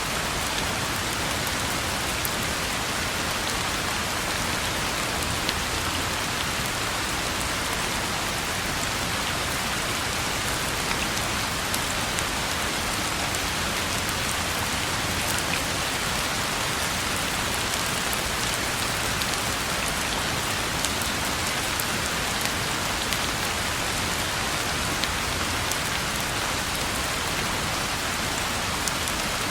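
Steady rain falling on a road: an even hiss with many small drop ticks, unchanging throughout.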